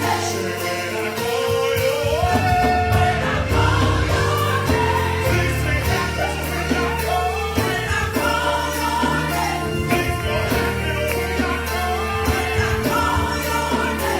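Gospel choir singing with instrumental accompaniment and a sustained bass line.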